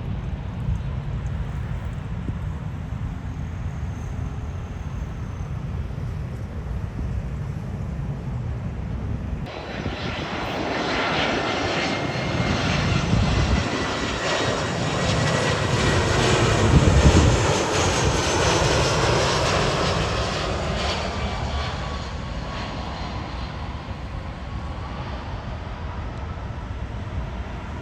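Jet airliner passing close by: its engine noise comes in suddenly about nine seconds in, swells with a high whine to its loudest a little past the middle, then fades away. A low rumble runs underneath the whole time.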